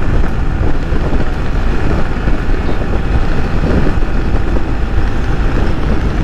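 Yamaha R15 V3's single-cylinder engine running steadily at highway speed, under heavy wind rush on the microphone.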